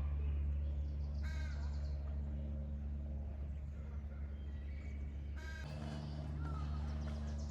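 A bird gives two short, harsh caws, about four seconds apart, over a steady low hum.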